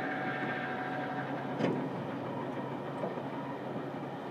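Running noise of a JR Kyushu 787 series limited express heard from inside a Green private compartment in the KuMoRo 787 car: a steady rumble of wheels on rail, with a single short knock about a second and a half in.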